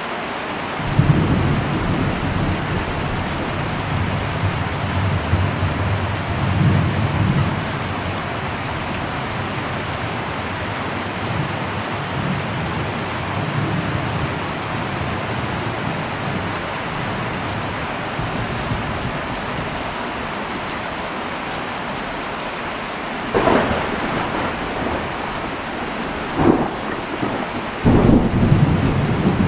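Heavy rain drumming steadily on an old metal roof, with thunder rumbling low through the first several seconds. Two sharper thunder cracks come a little over halfway through, about three seconds apart, followed near the end by a loud, deep rumble.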